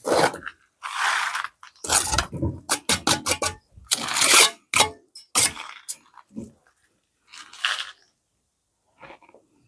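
Irregular scraping and crunching of masonry work with cement mortar, a run of short scrapes in the first seconds, then a longer scrape about seven seconds in and a short one near the end.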